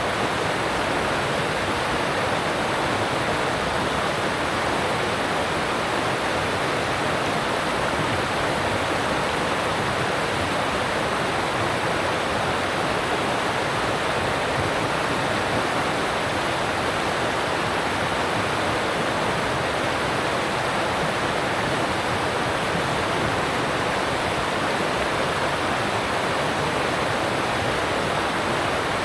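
Alpine stream rushing over rocks: a steady, even rush of water.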